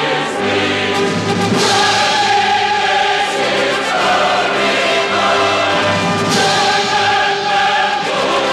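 Choral music: a choir singing long held notes, with a new phrase coming in about two seconds in and again near the end.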